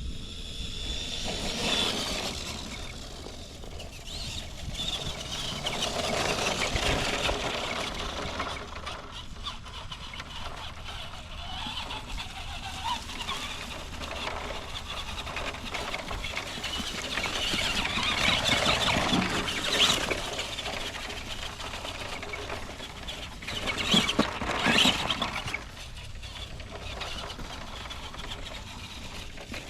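1:10 scale electric RC monster truck with a brushed motor driven through the woods: a rough, uneven running noise that swells and eases with the throttle. The loudest bursts come about two-thirds of the way through and again a few seconds later.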